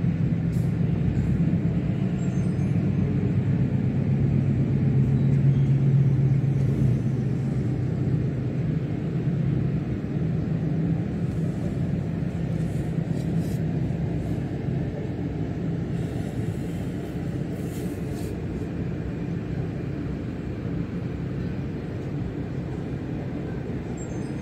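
Heavy rain with a steady low rumble, heard through window glass; the rumble swells about six seconds in and then slowly eases.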